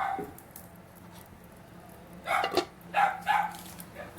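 A dog barking: one bark right at the start, then a quick run of about four barks a couple of seconds in.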